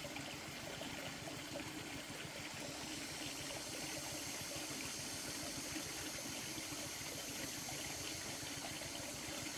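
Steady, even rushing of running water, without pauses or changes.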